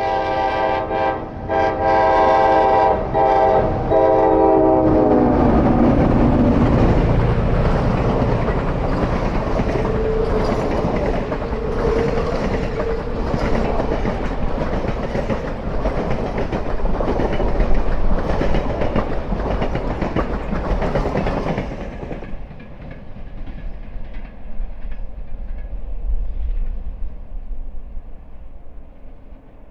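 Diesel F-unit locomotives passing close by, their multi-note air horn blowing in blasts with short breaks and sliding down in pitch as the lead unit goes past. Then the passenger cars roll by with steady wheel clickety-clack over the rail joints, which stops about 22 seconds in and leaves a fading rumble as the train pulls away.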